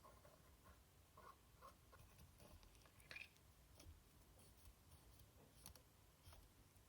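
Faint, irregular small clicks and light scratching from hands handling and cleaning a small part, with one sharper click about three seconds in.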